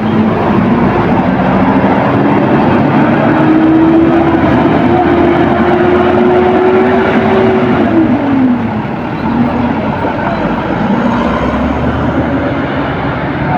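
Heavy road vehicle's engine revving up under load, its note rising, holding for a few seconds, then falling away about eight seconds in, over loud steady traffic noise.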